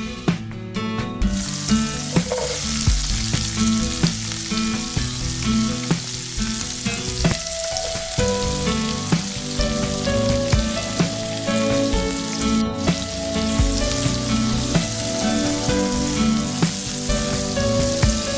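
Food sizzling in hot oil in a frying pan as it is stir-fried and turned with a spatula: minced garlic and ginger, then asparagus pieces and carrot slices. The sizzle starts about a second in, with guitar background music underneath.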